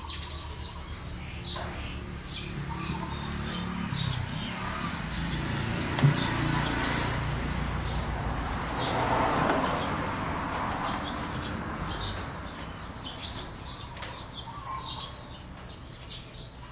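Small birds chirping repeatedly, in short high calls. Under them a broad rumbling noise swells up, peaks about ten seconds in and fades away, with a single sharp knock about six seconds in.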